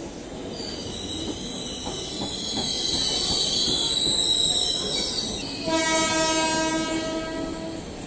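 Indian Railways passenger coaches rolling past along the platform, with a high-pitched wheel squeal through the first half. About five and a half seconds in, a train horn sounds one steady note for about two seconds.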